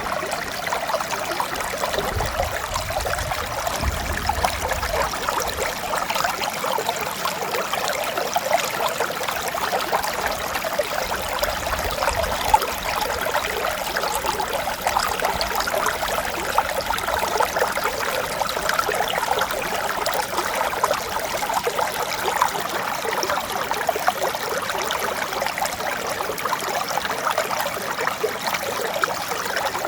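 Mountain stream flowing steadily over rocks, an even rushing and trickling of water. A faint low rumble joins it for a few seconds near the start.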